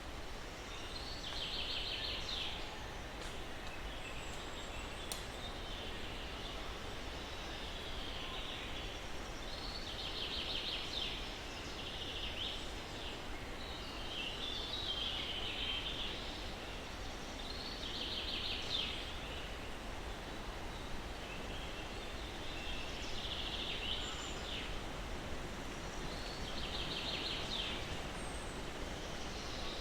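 Songbirds singing over a steady hiss of breeze: one bird repeats a short trilled phrase about every eight seconds, with shorter calls between.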